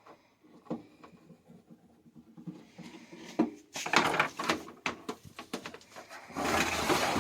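Clicks, knocks and rustling from handling and fitting the parts of a television set. Near the end a loud, steady hiss sets in.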